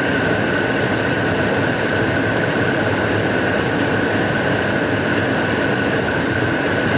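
2006 Dodge Dakota engine running steadily at an even speed, with a steady high whine above it. The engine has a mild misfire that makes the truck shake.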